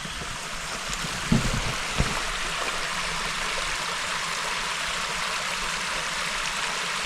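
Steady rush of flowing water, with a couple of short low thumps about a second and two seconds in.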